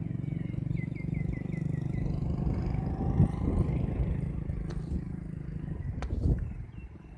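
Strong wind buffeting the microphone in a steady low rumble. A bird calls a quick run of about eight short chirps in the first two seconds, and a few sharp clicks come near the end.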